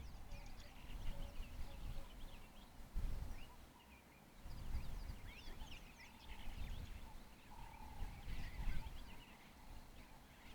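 Wild birds calling, with many short, rapid chirps and twitters overlapping throughout and a few faint whistled notes beneath them. Irregular low rumbles from wind buffeting the microphone.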